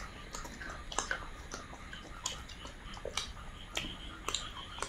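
Close-miked chewing and lip-smacking from people eating rice and curry by hand, with sharp wet mouth clicks about every half second. A high steady trill joins in near the end.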